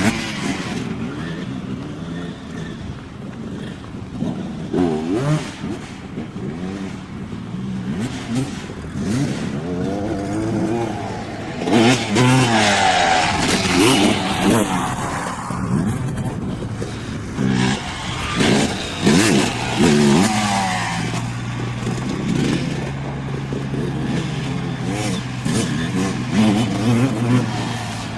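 Dirt bike engines revving up and down, their pitch rising and falling with the throttle, loudest for several seconds around the middle.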